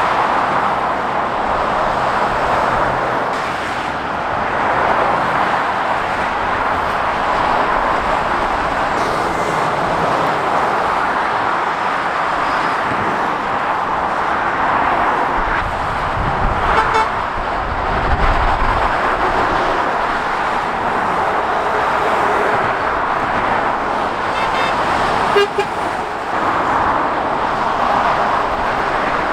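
Steady motorway traffic noise from passing lorries and cars, with the hiss of tyres and engines. Brief horn toots sound a little past halfway and again near the end.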